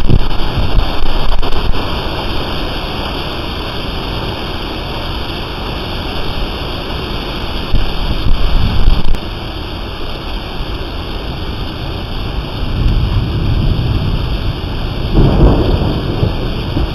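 Steady rain falling, with deep rolls of thunder at the start, again about halfway through and once more near the end.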